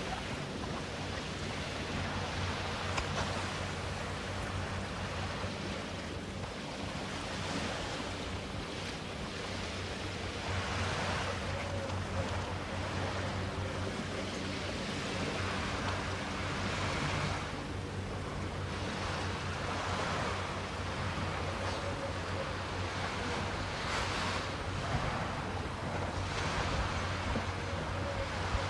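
Sea surf on a beach: waves breaking and washing in, in steady noise that swells every several seconds. A faint, steady low hum runs underneath.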